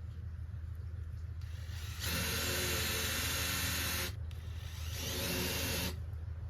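Power drill running in two bursts, the first about two seconds long, then a shorter one of about a second.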